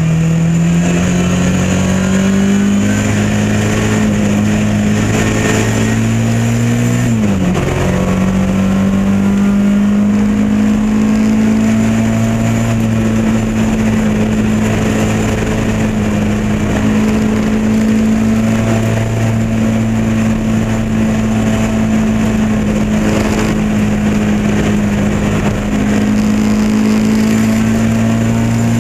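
Lotus Elan Modsports race car's engine running hard at high revs, with one quick gear change about seven seconds in; the revs then climb slowly and hold steady.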